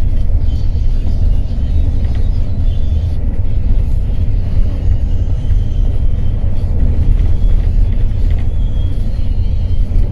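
Steady low rumble of an intercity coach bus driving, heard from inside the cabin, with road noise from the rough, flood-damaged highway surface.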